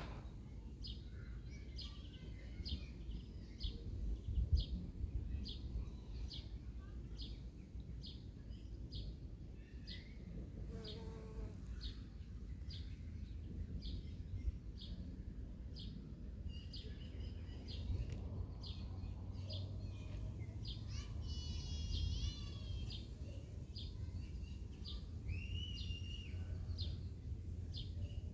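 Birds singing: one bird repeats a short high call about twice a second throughout, while others add warbling and whistled phrases, over a steady low rumble.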